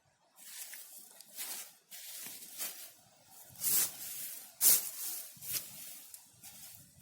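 Bow drill being worked: the wooden spindle rubbing against the fireboard in a run of back-and-forth strokes, each a short rasping hiss, about one a second. The loudest strokes come near the middle.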